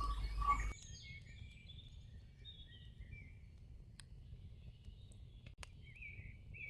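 Faint birdsong: many short chirps and quick pitch glides from several small birds. Under a second in, a low mains-like hum from the open microphone cuts off suddenly, leaving the birds alone with a few light clicks.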